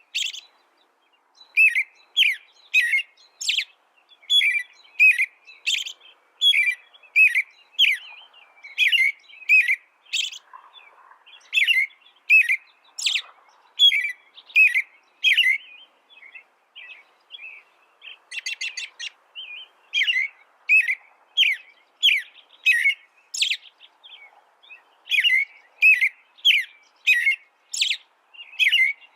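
A songbird singing a steady string of short, clear chirps, about two a second, with a quieter stretch and a brief rattling note a little past the middle.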